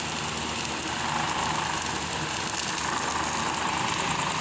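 Freshly lit bonfire burning with a steady rushing noise and fine crackle.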